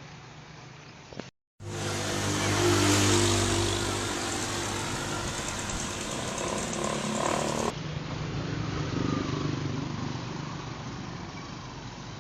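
Motor vehicle engines running, heard across separate compilation clips: the sound cuts out abruptly about a second and a half in, returns louder with a steady engine note, then switches to a quieter engine sound near eight seconds.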